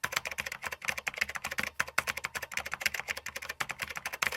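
Rapid keyboard typing: a fast, uneven run of sharp clicks, about ten a second, that starts and stops abruptly.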